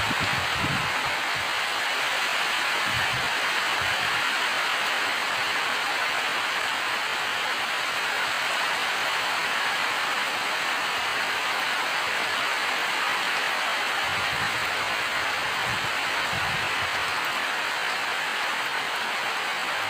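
Steady rain falling, a dense even hiss, with a few soft low thumps now and then.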